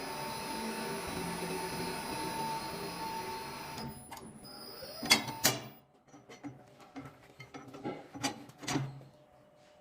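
Electric cold-forging machine for ornamental metalwork running with a steady hum, switched off about four seconds in, followed by a few sharp metal clanks.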